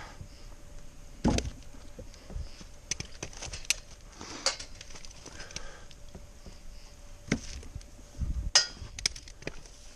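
Wooden log rounds knocking against one another as they are handled and set on a pile: several separate knocks and clacks at uneven intervals, the loudest near the end.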